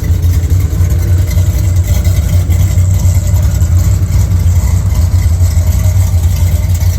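Engine of a V8-swapped Chevrolet LUV pickup idling steadily and loudly, running again with a cleaned needle and seat in the carburetor's secondaries.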